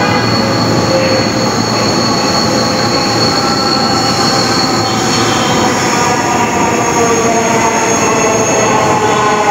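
Dhaka Metro Rail (MRT Line 6) electric train running, a steady rumble with a whine of several held tones, some of them slowly shifting in pitch from about halfway through.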